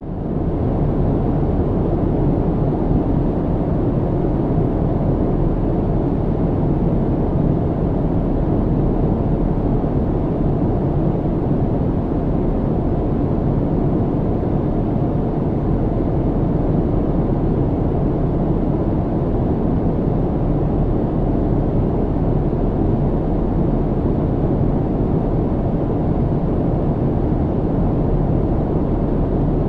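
Airliner cabin noise: the steady, low, even hum of the engines and airflow heard from inside the passenger cabin, unchanging throughout.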